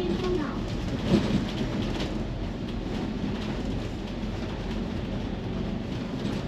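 Steady rain with a low rumble of thunder, and one brief louder sound about a second in.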